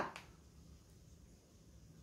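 Near silence with faint low room tone, after the tail of a spoken word fades out at the very start.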